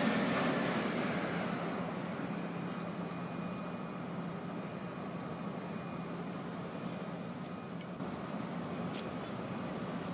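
Freight train of tank cars moving away, its rolling noise fading over the first couple of seconds to a steady low hum. A small bird chirps a rapid run of short high notes from about two seconds in until near the end.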